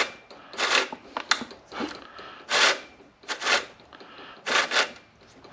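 Saw chain on a new 40cc chainsaw bar being pulled round by hand to check its tension: a series of short, irregular rasping scrapes of metal chain on the bar, with pauses between them. The chain has just been tightened and may be a little too tight.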